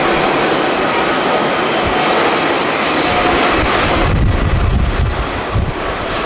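Jet airliner engines, a steady loud roar with faint steady whine tones through it. From about four seconds in, uneven gusts of strong wind buffet the microphone with low rumbles.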